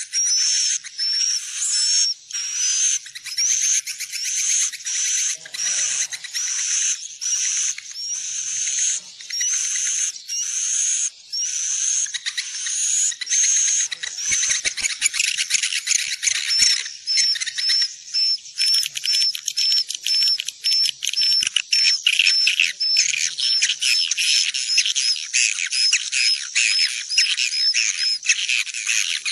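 Swiftlet lure call recording: edible-nest swiftlets twittering in a continuous run of high, buzzy chirps. The chirps come faster in the second half.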